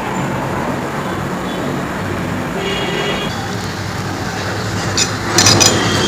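Steady low background rumble, then near the end a quick run of sharp, crisp crunches of powdery freezer ice.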